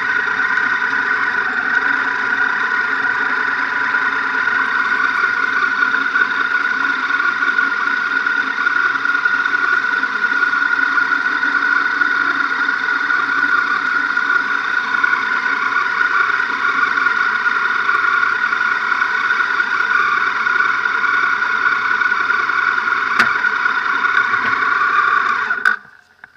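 BMW R1200GS flat-twin engine running steadily at low speed, heard through a camera mounted on the bike; the sound cuts off suddenly near the end.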